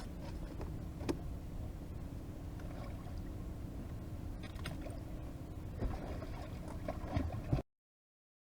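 Steady low rumble of wind and water around a small boat, with a few light knocks and clicks of handling on board; the sound stops dead near the end.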